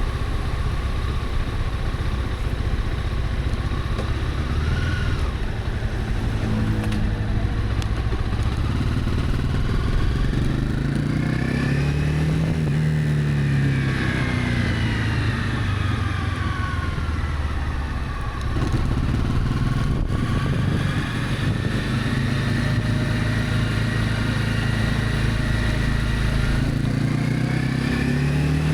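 Honda CB300F motorcycle's single-cylinder engine running under way, its pitch rising and falling with speed, over steady wind and road noise.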